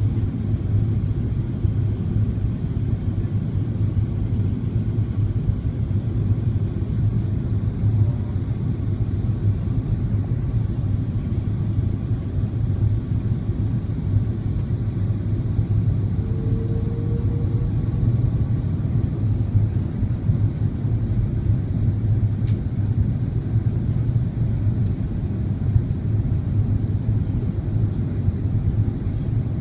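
Steady low drone of jet engines and airflow heard inside an airliner cabin in flight, with a deep hum and no change in pitch. A single short tick sounds about two-thirds of the way through.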